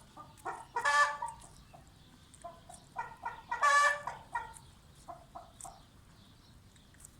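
Rhode Island Red chickens clucking in short calls, with two louder, drawn-out squawks, one about a second in and one near the middle.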